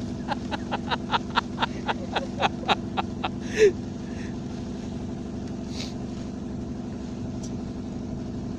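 A steady engine hum throughout. Over the first three seconds it carries a rapid run of short, sharp chirps, about four a second, ending in one louder call just before midway.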